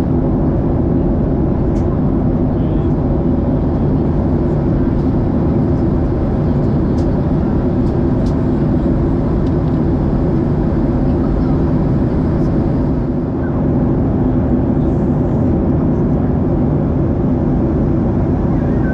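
Steady engine and airflow noise of a jet airliner in flight, heard from inside the passenger cabin, with a low hum under it.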